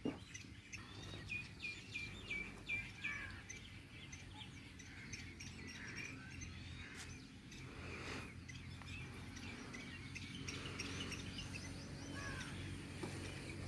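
Small birds chirping and calling outdoors, with a quick run of short, high repeated chirps about a second in and scattered calls after, over a faint low steady rumble.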